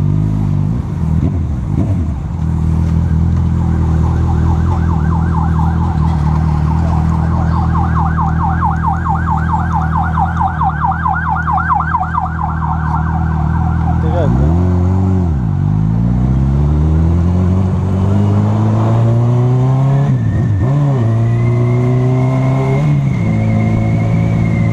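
Honda CB1000R inline-four motorcycle engine running at low, steady revs, then pulling away with its pitch rising through the gears, with short drops at the gear changes near the end.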